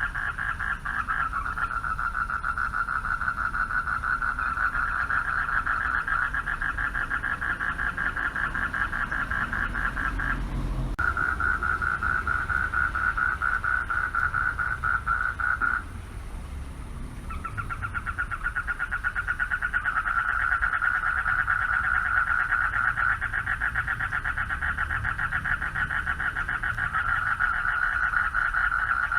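Chorus of male frogs calling for mates, a dense, rapidly pulsing trill. The chorus stops briefly twice, about ten seconds in and again around sixteen seconds, then starts up again.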